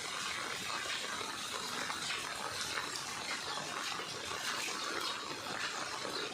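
Steady, faint rushing water noise with no distinct events, from the flood water around the subdivision.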